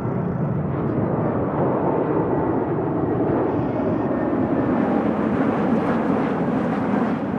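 Jet airliner's engines roaring low overhead on landing approach, a loud steady rumble that swells slightly before easing near the end.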